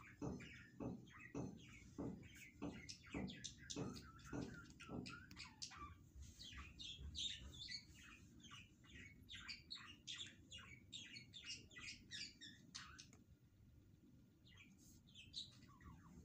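Faint bird calls: a series of short calls about twice a second at first, then a dense run of quick high chirps that thins out near the end.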